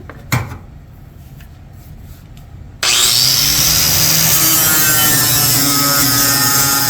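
A few light knocks and clicks of handling, then an angle grinder switches on nearly three seconds in. Its pitch rises as it spins up, and it grinds steadily and loudly against a metal pan.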